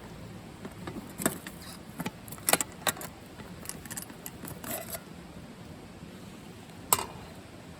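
Light metallic clinks and knocks of small metal items being handled: a quick run of sharp clicks, then one louder clink near the end.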